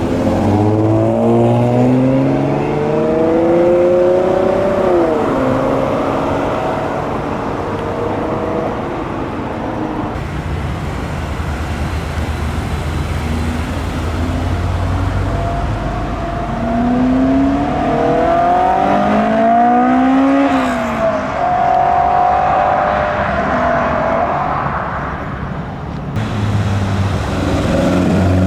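Car engines accelerating hard, the engine note climbing in pitch and then dropping sharply at a gear change, once near the start and again from past the middle into the last few seconds, over a steady low engine rumble.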